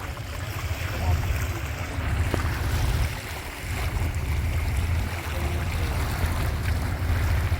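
Tour boat's motor running steadily under way, with water rushing past the hull and wind buffeting the microphone.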